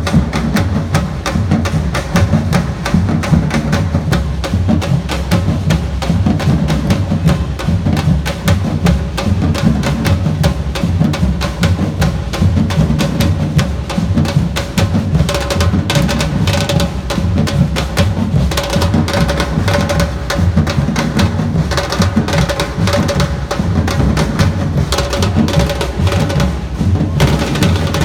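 Samba-reggae drum band playing a driving, unbroken rhythm: deep bass drums carry the beat under sharp, rapid snare and hand-drum strokes.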